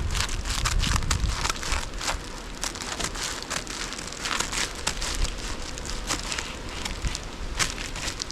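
Sheet of foil being handled, crinkling with irregular crackles and clicks.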